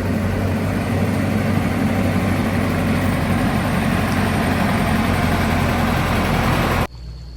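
A machine's engine running steadily at a constant speed, with a deep low hum. It cuts off abruptly near the end, leaving a quieter low hum.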